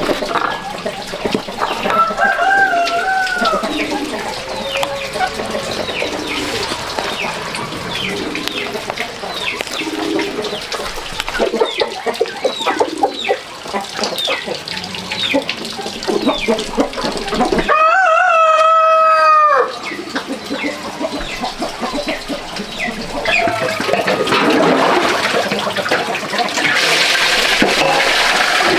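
Chickens clucking and chirping, with a rooster crowing once, loud and about two seconds long, some eighteen seconds in. Near the end a steady rush of running water comes up.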